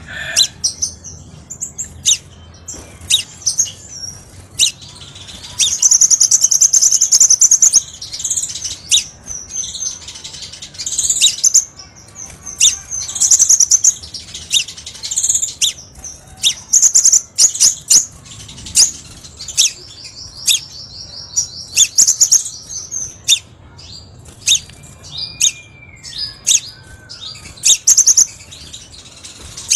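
Crimson sunbird (kolibri sepah raja) singing: high, rapid trills lasting one to three seconds, repeated through the stretch and broken up by many sharp chip notes.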